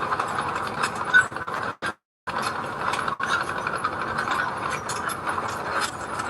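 Heavy earthmoving machinery working, a dense metallic clattering and clicking over running machine noise; it breaks off to silence briefly about two seconds in.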